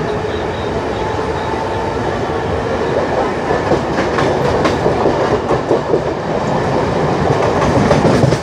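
MEMU electric passenger train running at speed, heard at an open coach window: a steady rumble and rush, with a faint steady whine during the first few seconds. From about three seconds in, the wheels clatter over rail joints and the sound gets a little louder.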